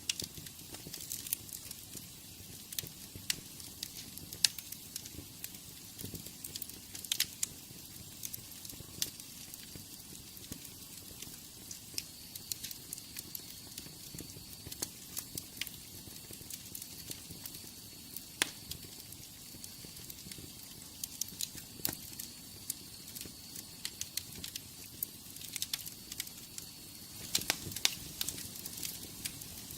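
Wood fire burning in a fireplace, crackling with irregular sharp pops and snaps over a steady soft hiss. A faint high whistle runs through the middle stretch.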